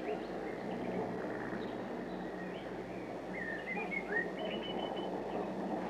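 Faint birdsong: a few short chirps in the second half, then a quick run of repeated notes, over a steady background hiss and hum.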